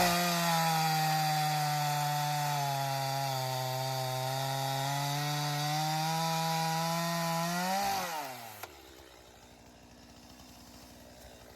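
Two-stroke chainsaw held at full throttle cutting through a small oak limb, its pitch sagging slightly under load partway through. About eight seconds in the throttle is released and the engine winds down.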